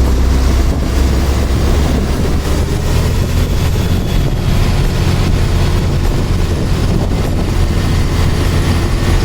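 Truck's engine and road noise while driving: a loud, steady low rumble with an even hiss over it.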